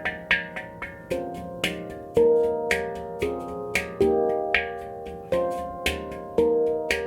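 F minor handpan by Oasis Sound Sculpture played by hand: a steady run of struck notes that ring and fade, with accented strikes about every half second and lighter taps between them.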